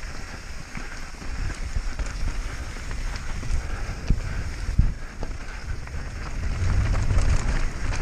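Wind buffeting a bike rider's camera microphone at speed, over a mountain bike's tyres rolling on rough ground, with scattered small knocks and rattles from stones and the bike.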